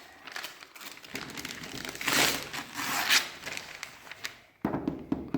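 Wrapping paper being torn and crumpled as a large gift is unwrapped, in irregular rustling tears with the loudest about two and three seconds in.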